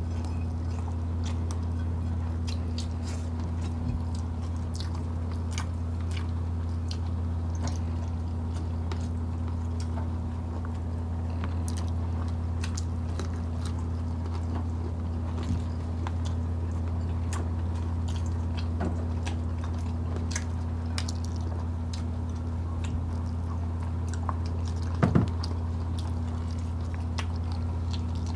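Two people eating grilled chicken and bean-sprout spring rolls with their hands: scattered chewing and small mouth clicks close to the microphone, over a steady low hum. One louder short sound about 25 seconds in.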